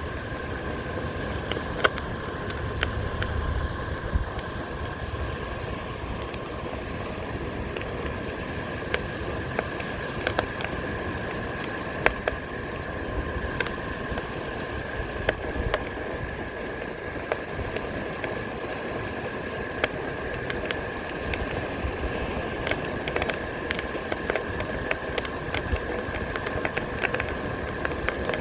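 Onewheel electric board rolling along the beach: many sharp crunching clicks of shells under the tyre over a steady hum, with wind and surf noise. A low rumble of wind on the microphone is stronger in the first few seconds.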